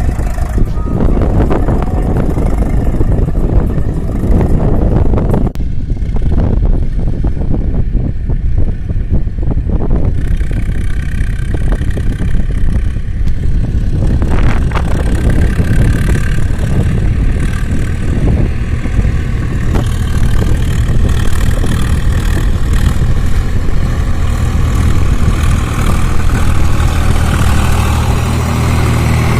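Tractor engines running, a loud and continuous engine noise.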